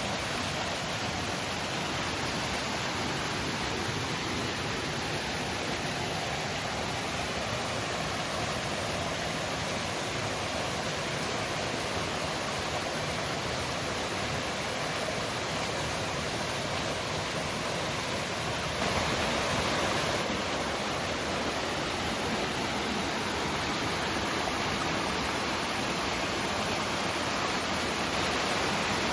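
Mountain valley stream flowing in a steady, unbroken rush of water, swelling slightly for a moment about 19 seconds in.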